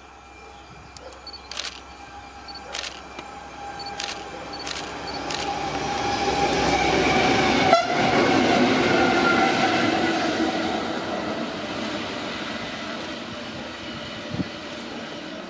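A train passing at speed: its noise builds, peaks about halfway through and fades away, with a steady tone that drops in pitch as it goes by. A few sharp clicks in the first few seconds.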